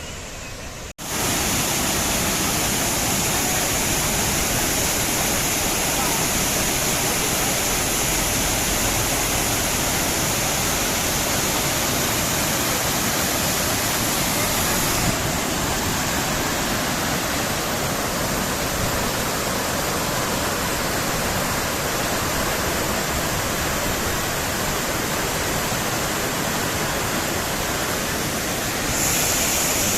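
Loud, steady roar of a large waterfall's falling water. The sound changes abruptly about a second in, about halfway through and again near the end.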